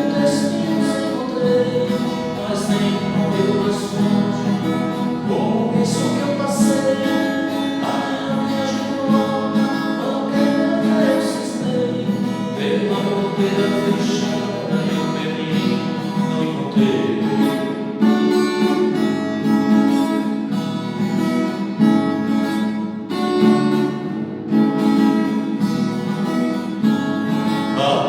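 Acoustic guitar strummed and picked in a steady instrumental passage between sung verses.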